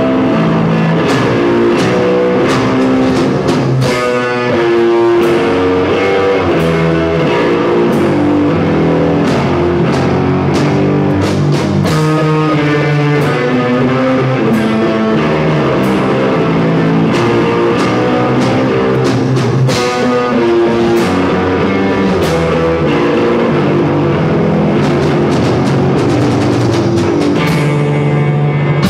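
Rock music with guitar and drums playing continuously.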